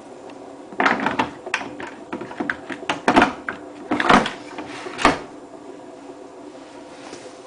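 Hotpoint WT960 washing machine tumbling its drum during a delicates main wash: a few seconds of irregular splashes and knocks over a steady motor hum.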